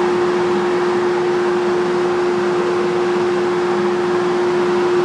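Woodshop power-tool motor running steadily, a constant hum over a rushing noise.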